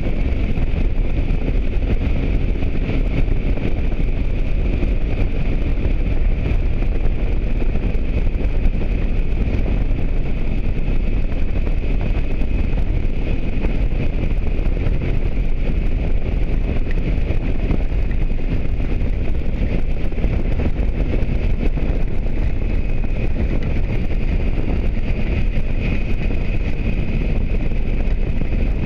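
Motorcycle ride heard through the on-board microphone: steady wind rush buffeting the mic over the running engine and road noise, even and unbroken, heaviest in the deep low end.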